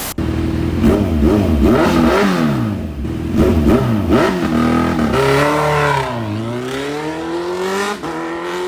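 Modified 2014 Kawasaki Z1000's inline-four engine revved in a string of quick throttle blips, the pitch jumping up and dropping back several times. After that comes a longer fall in revs and then a steady climb.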